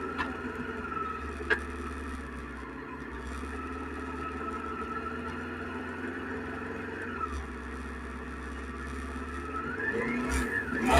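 Suzuki SV650X's 645 cc V-twin engine running at a steady speed. Its tone dips about seven seconds in, then rises and grows louder near the end as it revs up.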